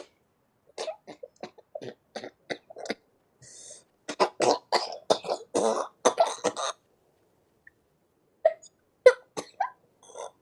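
A person's short, sharp vocal bursts in quick runs, each burst a fraction of a second: coughing or laughing fits, without words.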